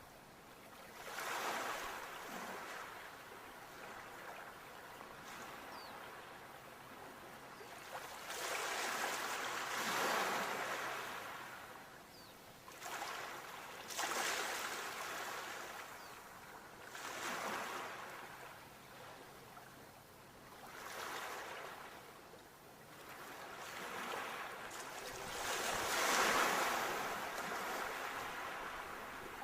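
Ocean waves breaking and washing in, a swell of rushing surf every few seconds that rises and falls away, the biggest one near the end.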